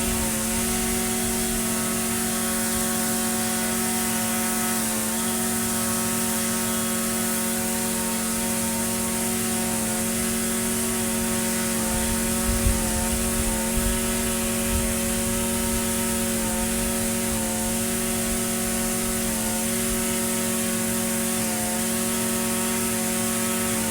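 Echo SRM-2620 string trimmer's small two-stroke engine running steadily at a constant speed, with a few low knocks about halfway through.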